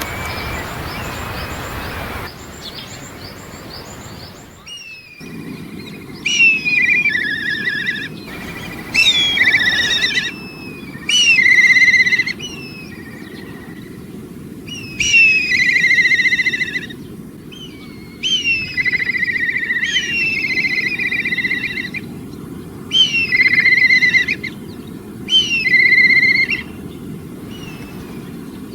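A bird calling in a series of loud phrases a few seconds apart, each opening with a falling note, over a steady low background hiss.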